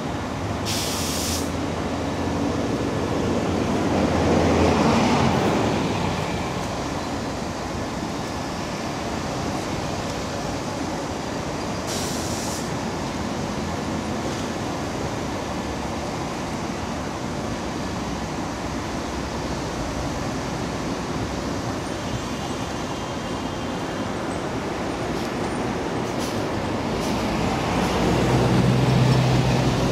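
Slow-moving HXD3C electric locomotive hauling passenger coaches: a steady running noise, with a low hum growing louder near the end as the locomotive draws close. There is a louder swell about four seconds in, and two short hisses, about a second in and again about twelve seconds in.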